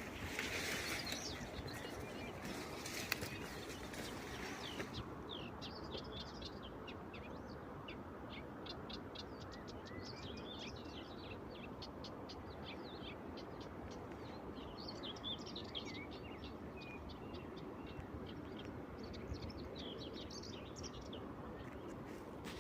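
Wild birds chirping and singing in many short, quick notes, thick from about five seconds in, over a steady low rushing background.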